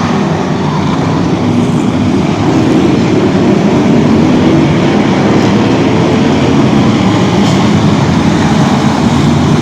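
Motor vehicle engines running, a loud steady rumble with no break.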